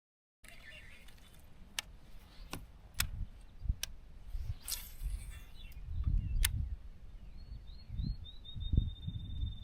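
Several sharp clicks over an uneven low rumble, then a high bird trill of short chirps running into a steady trill in the last quarter.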